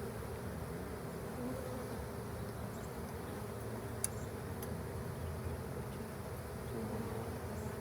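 A honeybee colony buzzing steadily from an open hive, with one sharp click about four seconds in.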